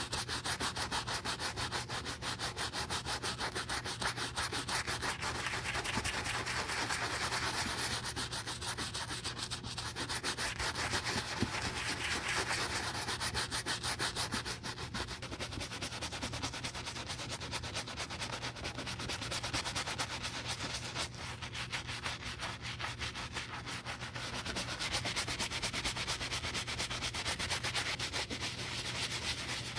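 Quick, continuous back-and-forth rubbing strokes on a cowboy boot, as in scrubbing or sanding the leather or sole by hand.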